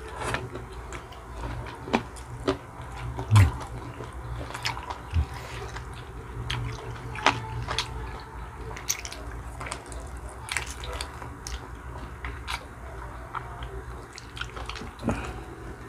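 Close-miked eating sounds of people biting and chewing saucy chicken feet adobo: irregular wet mouth clicks and smacks, with a couple of dull low thumps about three and five seconds in. A steady low hum runs underneath.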